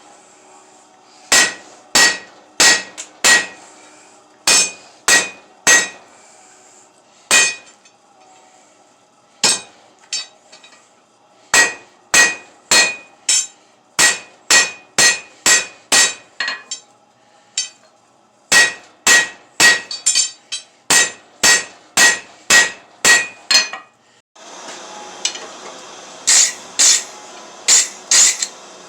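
Hand hammer striking steel on an anvil while forging table legs by hand, about two blows a second in runs with short pauses, each blow ringing clearly. A steady rushing noise starts near the end and runs under the last blows.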